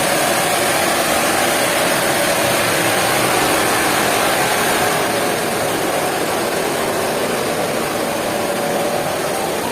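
Steady noise of machinery running, even throughout, easing slightly in loudness about halfway through.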